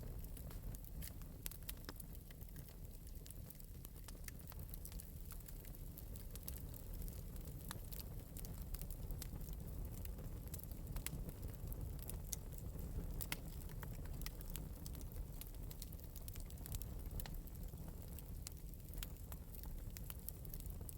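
Wood fire in an open metal fireplace crackling lightly, with many small irregular snaps over a steady low rumble.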